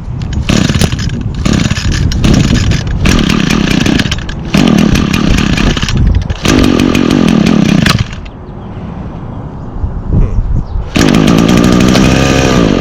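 Echo SRM225 string trimmer's 21.2cc two-stroke engine running roughly. It is revved in repeated bursts that drop back between them, then idles more quietly for a few seconds before one more rising rev. It is running poorly, with a primer bulb that would not prime.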